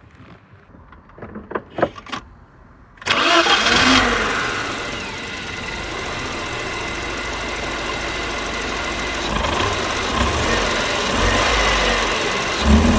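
A few clicks, then the BMW E30 316i's four-cylinder petrol engine starts about three seconds in, loudest for about a second before settling to a steady idle.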